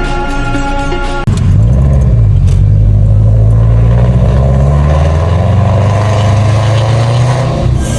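Music plays briefly and cuts off about a second in. It gives way to the loud, deep exhaust rumble of a Subaru Forester's naturally aspirated flat-four boxer engine, breathing through unequal-length headers and a full exhaust with a Kakimoto muffler. The car is under way and accelerating, with the pitch rising toward the end.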